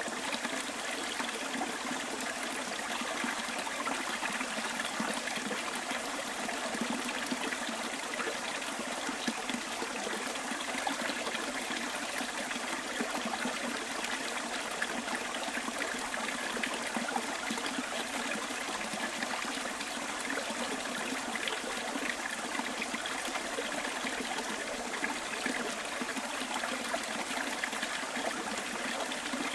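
Small bush stream trickling and babbling steadily over stones.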